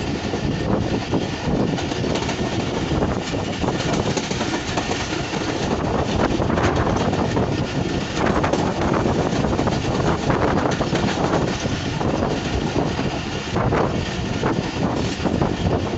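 Passenger train running at speed, heard from beside a moving coach: a steady rumble and clatter of steel wheels on the rails, with occasional sharper knocks.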